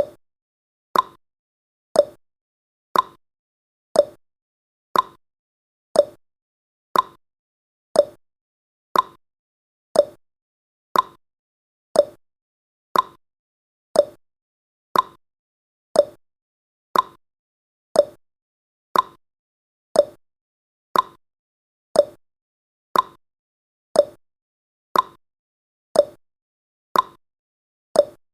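Clock-like ticking sound effect of a countdown timer: one short, sharp tick every second, steady and even.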